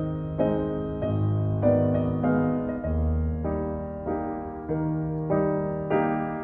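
Piano music: notes and chords struck at an even pace, a little under twice a second, each fading before the next, over a slowly changing bass.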